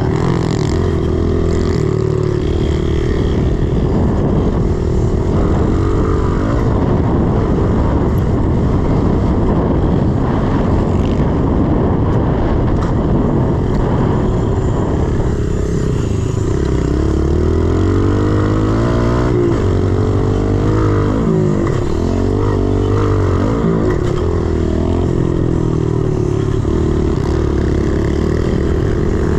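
110cc single-cylinder four-stroke pit bike engine running under load, its revs climbing and dropping again and again as the bike is ridden round the track.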